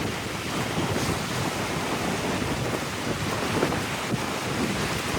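Wind gusting across the microphone, with ocean waves washing beneath it.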